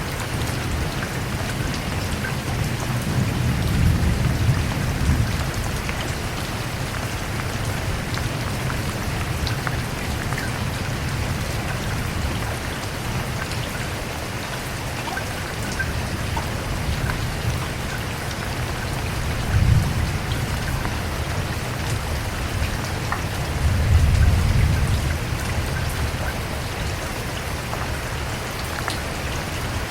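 Steady heavy rain falling on a surface, with scattered individual drop ticks. Low rumbles of thunder rise under it a few seconds in, briefly in the second half, and again shortly after.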